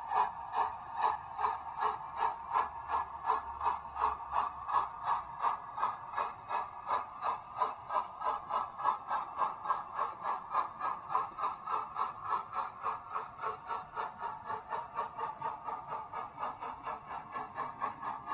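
00 gauge model train running on the layout, giving a steady, rhythmic mechanical clicking about three to four times a second.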